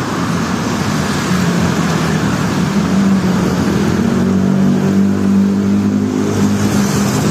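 Road traffic on a rain-wet street: a vehicle engine runs steadily close by over a continuous hiss of tyres and rain. The engine note grows stronger about three seconds in.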